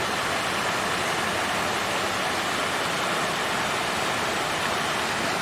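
Water fountain flowing steadily: an even, unbroken rush of splashing water.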